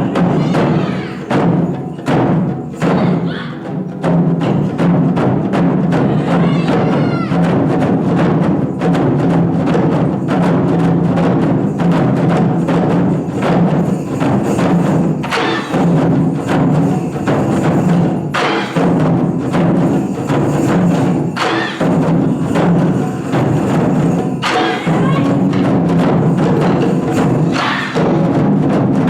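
Ensemble of Japanese taiko drums played live, a continuous stream of rapid, closely packed strikes.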